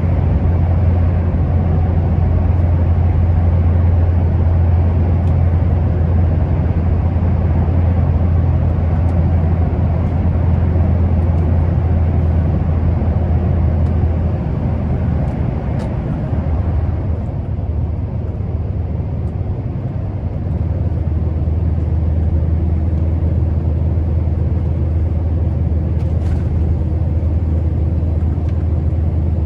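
Scania R650's V8 diesel engine running under way with a steady low drone, easing off for a few seconds about halfway through and then pulling strongly again.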